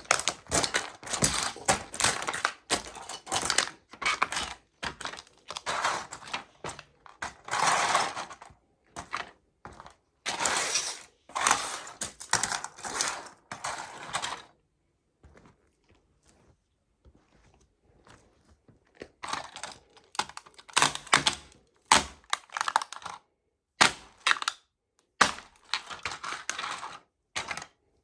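Toy model trucks cracking and crunching under a sneaker sole, in runs of sharp snaps and crackles. The crushing pauses for about five seconds midway, then starts again.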